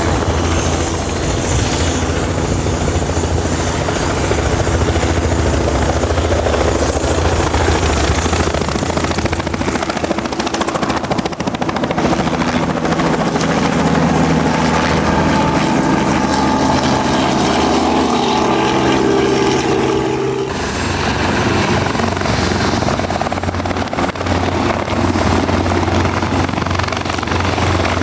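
Helicopter running close by, with steady rotor beat and turbine tones. About twenty seconds in, the sound changes abruptly to a different helicopter sound.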